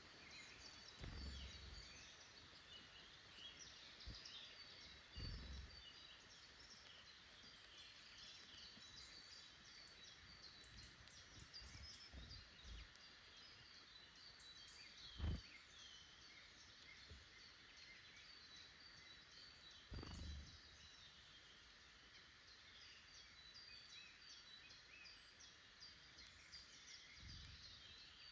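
Faint woodland birdsong: many short chirps and trills from small wild birds, with a few low thumps, the sharpest about halfway through.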